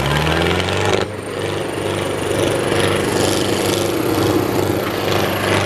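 Sonalika DI 750 tractor's diesel engine running: its revs rise over the first second, then it runs steadily with a thin high whine that climbs slowly.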